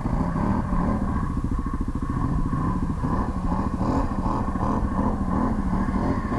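ATV engine running steadily at moderate revs, the revs wavering slightly up and down.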